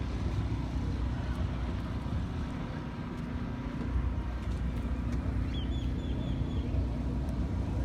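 Low, steady rumble of car engines running in a parking lot, with a few steady low tones in it. About five and a half seconds in, a quick run of about five short high chirps.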